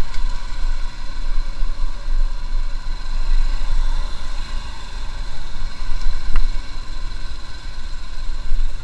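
Motorcycle running on the road with heavy wind buffeting the microphone. A gusting low rumble rises and falls over a steady engine drone.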